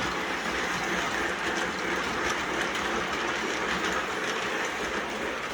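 O gauge model train running around the layout track, a steady rumble and whir of its wheels and motor on the rails.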